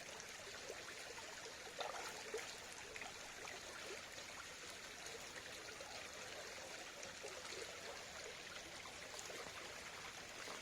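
Steady trickling of shallow flowing water, a little louder about two seconds in.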